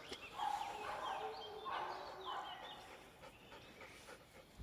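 Faint dog whines and yelps, several short pitched calls in the first three seconds, then near quiet.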